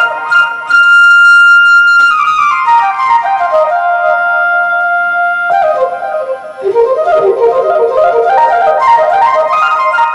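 Flute patch on a Korg TR keyboard playing a melody: long held notes joined by quick runs, falling just after two seconds and rising again from about six and a half seconds.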